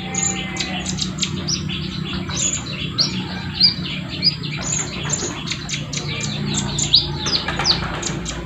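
Sunbird (the 'kolibri ninja' of Indonesian bird-keepers) singing energetically: a fast, unbroken string of high chirps and short downward-sweeping notes, over a steady low hum.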